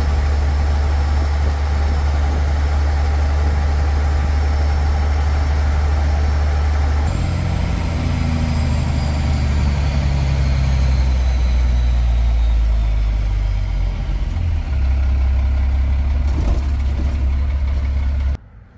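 Vehicle engine running while driving, a steady low drone whose note changes about a third of the way in and again later on. The sound cuts off abruptly near the end.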